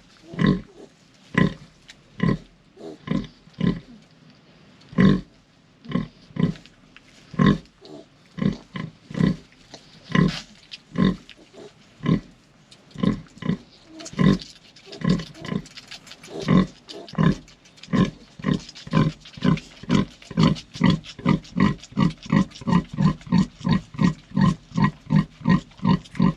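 A sow grunting over and over in short, low grunts, irregular at first and then settling into a quicker, steady rhythm of about three a second in the second half.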